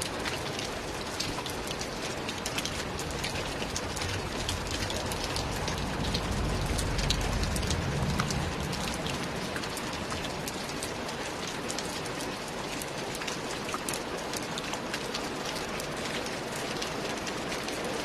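Steady rain falling, with many separate drop hits sounding through it. A low rumble swells and fades between about four and nine seconds in.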